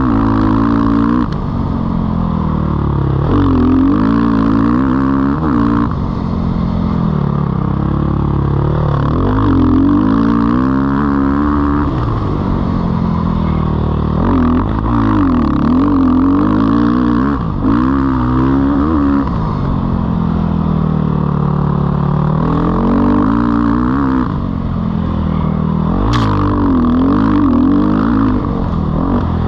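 2019 Sherco 450 SEF dirt bike's single-cylinder four-stroke engine being ridden hard, its pitch climbing and dropping again and again as the throttle opens and closes through the turns. A short sharp clack sounds near the end.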